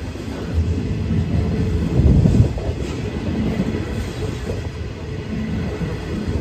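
Freight train hopper wagons rolling past at speed: a steady rumble of steel wheels on rail, with heavier pulses as the bogies go by, the loudest about two seconds in.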